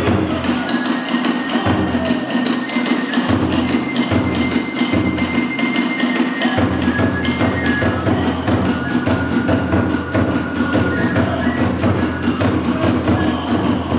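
Hiroshima kagura hayashi accompaniment: a fast, even beat of drum and hand cymbals, with held flute notes above it.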